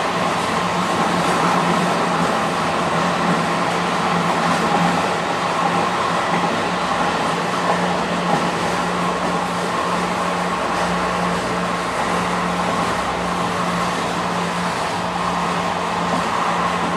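Passenger train running steadily: continuous rolling noise with a constant low hum throughout.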